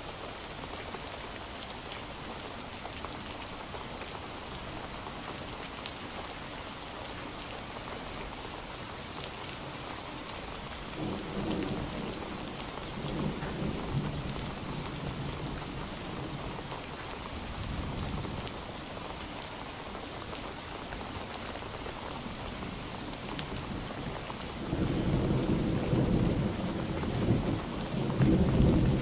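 Steady rain falling, with thunder rolling low twice: a long rumble starting about a third of the way in, and a louder one near the end.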